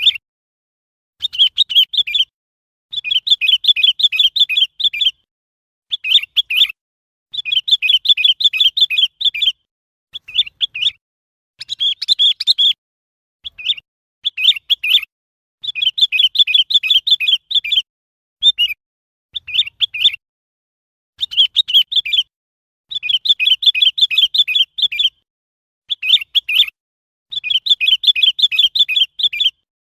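Sooty-headed bulbul calling: phrase after phrase of quick, bubbly chirping notes, each phrase a second or two long with brief silences between.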